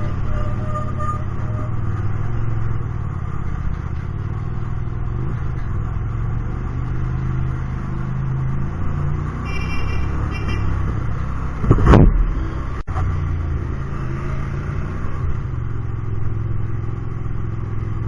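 Hyosung GT250R's 250 cc V-twin running through an aftermarket Solfer exhaust while riding in traffic, the engine note rising and falling with the throttle. A short high-pitched tone sounds about ten seconds in, and a brief loud rush of noise follows about two seconds later.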